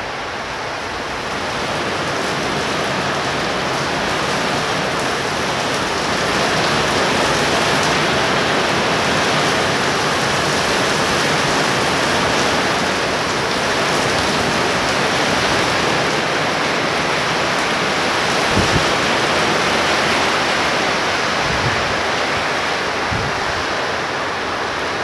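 Heavy rain falling steadily: a dense hiss that swells over the first few seconds and then holds. A few brief low thumps come in the last several seconds.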